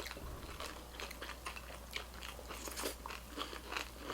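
Close-miked crunchy chewing and biting of a mouthful of chiura (dry beaten rice) with buff choila: many small, irregular crunches.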